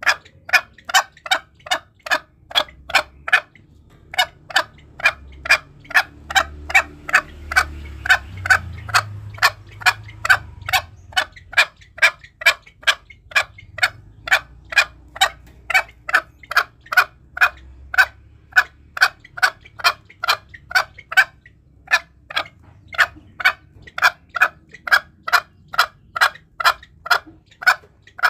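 Green junglefowl clucking in a rapid, even series of short calls, about three a second, breaking off briefly twice; a lure-call recording used to draw junglefowl in for hunting.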